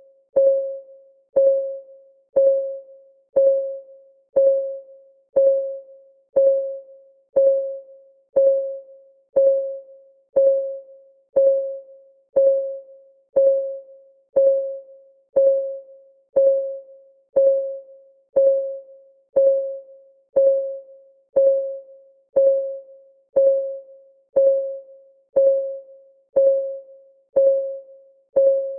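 Countdown timer's clock ticking sound, one tick each second, evenly spaced. Each tick is a sharp click with a short ringing tone that dies away, every tick alike rather than alternating tick-tock.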